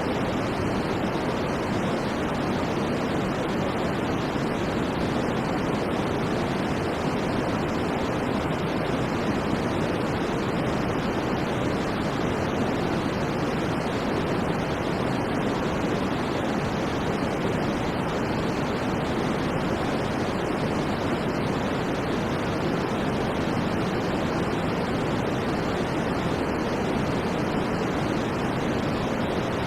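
Steady white noise for sleep: an even, unchanging hiss with no rhythm or events, fuller in the low and middle range than in the treble.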